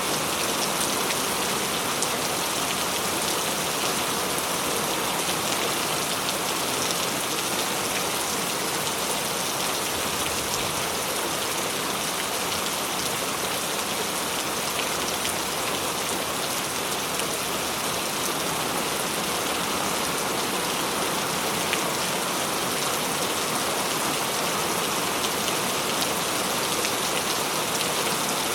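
Steady rain falling on a hard surface: a dense, even hiss with the fine ticks of single drops scattered through it.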